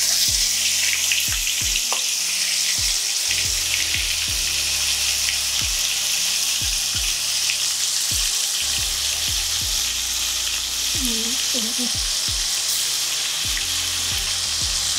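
Marinated jackfruit pieces deep-frying in hot oil in an aluminium kadai: a loud, steady sizzle that starts suddenly as the frying begins and holds evenly throughout.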